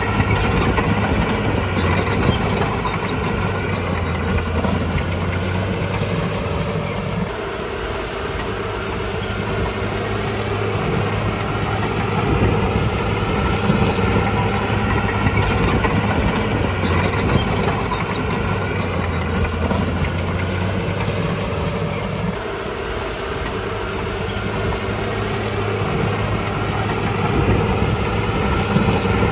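Heavy diesel engine of a Komatsu D51PX crawler bulldozer running steadily at work, its note easing off twice for a few seconds and coming back up, with a few sharp metallic clanks.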